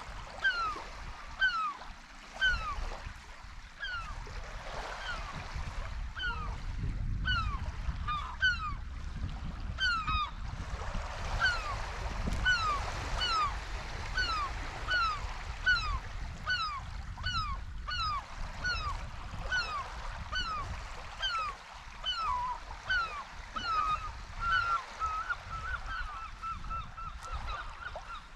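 Gulls calling over and over: a steady run of short falling cries, about one a second, turning into a quick string of short level notes near the end. A low rumble runs underneath.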